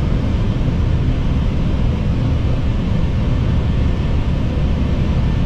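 Steady rumble of airflow and engine noise heard inside an Airbus airliner's cockpit on final approach, heaviest in the low range and unchanging throughout.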